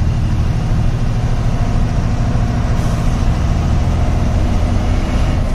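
Truck's diesel engine running steadily, with a low, even drone.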